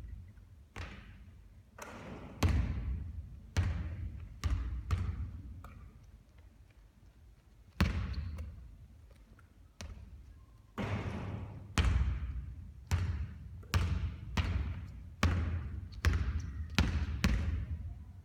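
A basketball bouncing on a hard court during three-point shooting practice: sharp thuds with a ringing tail, at uneven intervals. There is a lull of about two seconds partway through, then a quicker run of bounces near the end.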